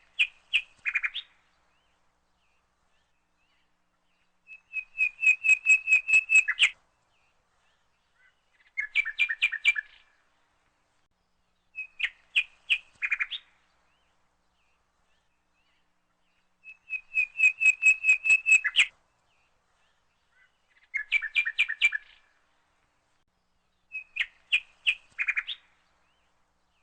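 A bird singing in repeated phrases of quick, clear, high notes, about seven phrases every three to four seconds, with silence between them.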